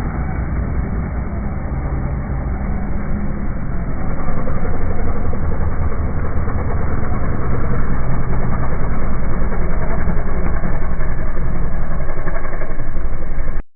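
A rally vehicle's engine running steadily with a low hum, growing louder about four seconds in; the sound cuts off suddenly near the end.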